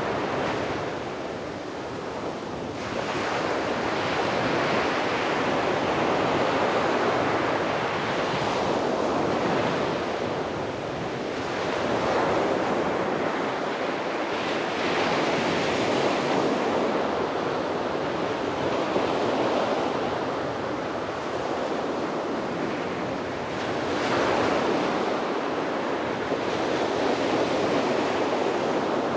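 Sea waves breaking and washing up a beach, a continuous rush of surf that swells and eases every few seconds, with some wind on the microphone.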